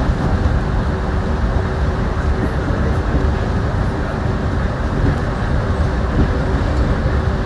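Yurikamome automated guideway train running, heard from inside the car: a steady rumble of rubber tyres on the concrete guideway, with a faint steady hum underneath.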